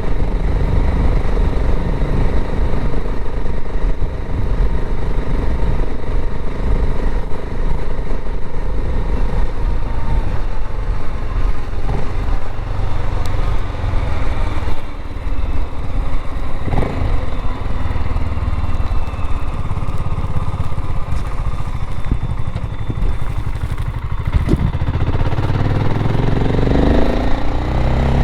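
BSA Goldstar 650 motorcycle engine running under way, with wind noise on the microphone; the engine note rises near the end as it accelerates.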